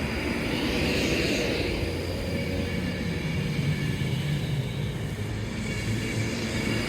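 Steady low vehicle rumble, with a hiss that swells about a second in and fades.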